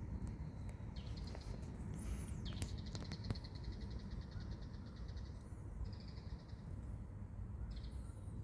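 Small birds calling: a few thin high squeaks, a rapid trill lasting about two seconds, and a short whistled note, over a low steady rumble.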